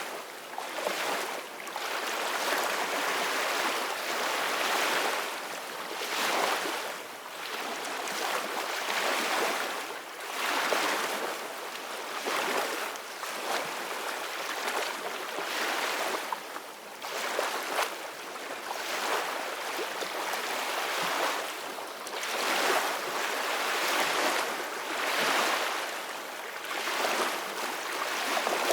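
Ocean surf breaking and washing up a beach: a continuous rushing hiss that swells and eases every couple of seconds as the waves come in.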